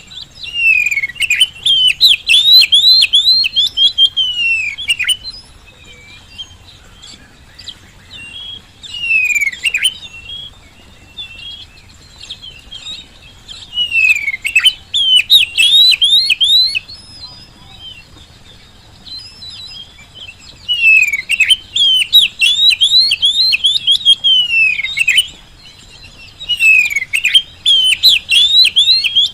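Oriental magpie-robin singing in full 'gacor' form: five loud bursts of rapid, down-slurred whistled notes, each a few seconds long, with short pauses between them.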